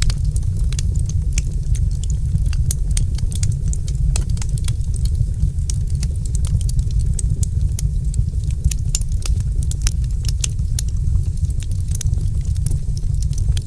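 Wood fire crackling, with many small sharp pops at an irregular pace over a steady low rumble.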